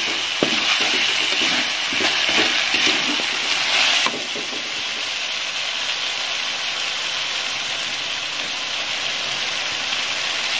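Chopped shallot and chilli paste sizzling in hot oil in an aluminium wok, with a metal spatula scraping and stirring it for about the first four seconds. After that the sizzle goes on steadily, a little quieter, with no stirring.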